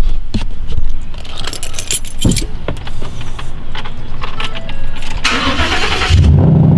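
Keys jangling and clicking, then a car's starter cranks for about a second and the engine catches about six seconds in, settling into a steady cold-start idle.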